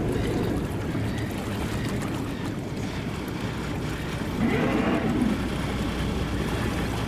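A boat's engine running steadily under a haze of wind and water noise, with a brief louder swell of sound about four and a half seconds in.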